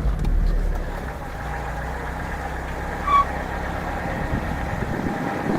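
Lada Niva four-cylinder petrol engine idling steadily with no grinding, the distributor shaft freshly oiled. A brief high chirp sounds about three seconds in.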